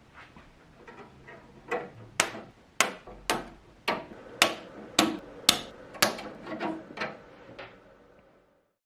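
A hammer striking metal, about a dozen blows at roughly two a second, each with a short metallic ring, starting light and growing heavier before stopping.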